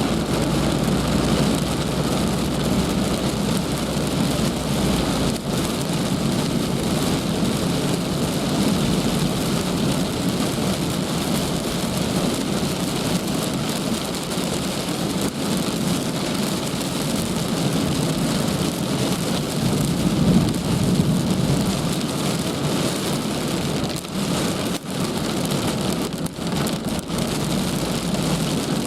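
Heavy rain falling steadily, with a low rumble under it for the first five seconds or so.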